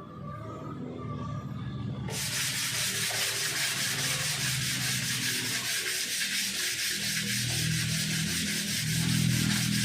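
Sanding of cured body filler on a car panel, starting abruptly about two seconds in and continuing as a steady abrasive hiss.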